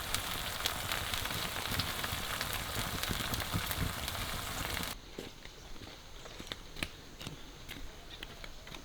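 Food sizzling and crackling as it fries in a pan, cut off abruptly about halfway through. Then come quieter scattered clicks and taps.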